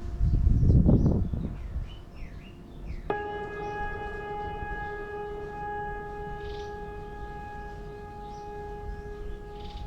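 Birds chirping over a low rumble that swells and fades in the first second or so. About three seconds in, a steady pitched tone with several overtones starts suddenly and holds without changing pitch.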